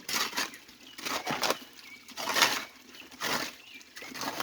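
Rough swishing strokes, about one a second, from hands-on clearing work at a stream, with faint bird chirps between them.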